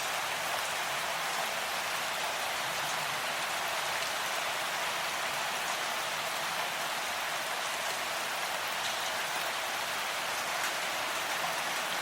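Steady rainfall, a dense even patter of raindrops with no let-up.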